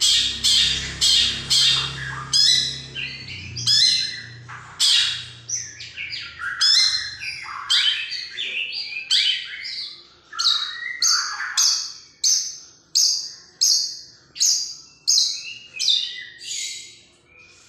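A long-tailed shrike (cendet) calling in a long series of loud, harsh, scratchy notes. The notes come about two a second at first, turn irregular, then settle near the end into an even run of about three every two seconds.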